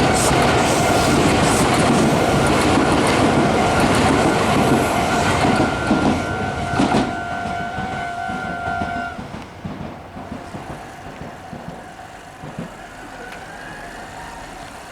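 Meitetsu 4000 series electric train passing over a level crossing, its wheels clattering loudly on the rails for about seven seconds before the noise fades away. The crossing's electronic warning alarm sounds a steady two-tone ring throughout and cuts off about nine seconds in.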